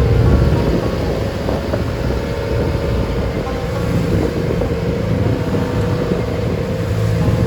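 Engine of a traditional wooden passenger boat running steadily under way, with wind buffeting the microphone.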